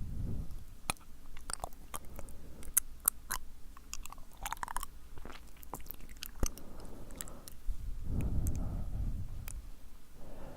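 Close-miked, sticky mouth sounds: an irregular string of wet tongue and lip clicks and smacks, then a soft breathy blow about eight seconds in.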